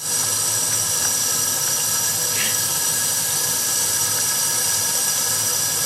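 Kitchen tap running steadily into the sink, a continuous even hiss.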